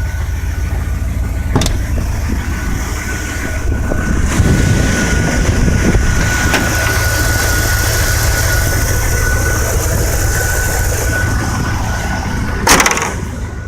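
A 1997 Dodge Ram 1500's 318 V8 idling steadily, with a thin steady whine over the rumble. A sharp knock comes about a second and a half in and a louder knock near the end.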